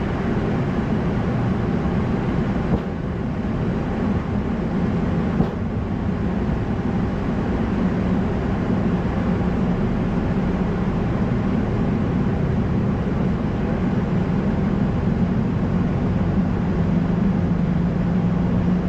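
Steady flight-deck noise of an Airbus A220-100 in the climb: a constant rush of airflow and engine with a steady low hum, and a couple of faint clicks in the first few seconds.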